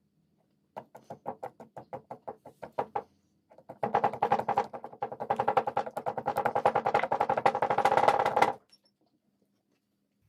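Crisp cracking of chocolate being crushed: a run of separate cracks about four or five a second, then after a short pause a faster, louder run of dense crunching for about five seconds that stops abruptly.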